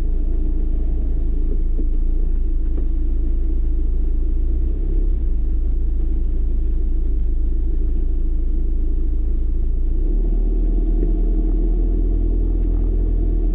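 A car driving: a steady low rumble of engine and road noise, its deepest part shifting about ten seconds in.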